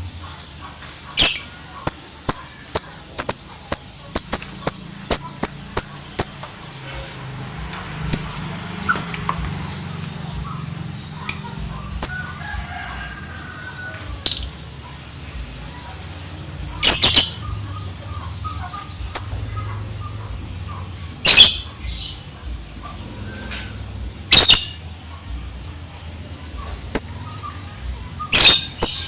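Lovebird chirping in sharp, high-pitched calls: a quick run of about three chirps a second for the first several seconds (the rapid 'ngetik' chatter keepers prize), then single loud chirps every few seconds.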